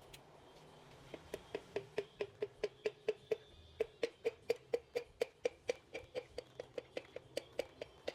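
Rapid, evenly spaced metallic clicks, about five a second, each with a short ring; they start about a second in.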